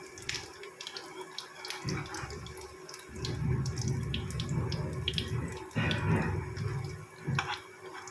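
Bread-and-egg puffs shallow-frying in hot ghee in a frying pan, sizzling with scattered crackles just after being flipped. A low hum comes in about three seconds in and fades near the end.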